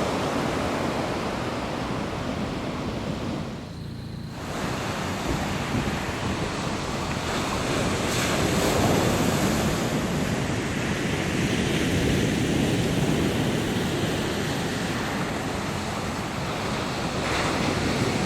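Ocean surf washing on a beach, a continuous rushing noise that swells and eases, with wind buffeting the microphone. The sound briefly drops about four seconds in.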